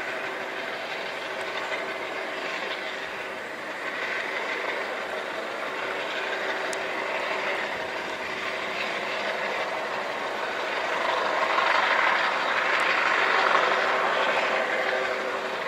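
Steady vehicle noise with a constant hum, swelling louder about eleven seconds in.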